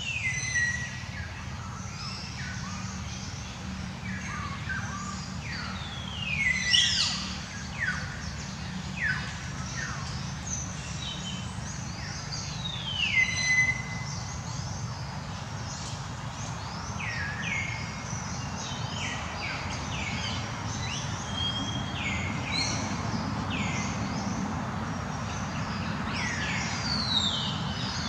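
Birds calling: many short whistled calls that sweep down in pitch, some ending on a brief held note, repeated on and off throughout, over a steady low rumble.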